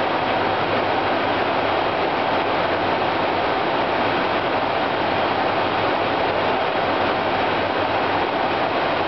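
Steady rushing cabin noise on an airliner's flight deck in cruise at 36,000 ft: airflow over the cockpit mixed with the hum of the aircraft's systems, even and unbroken.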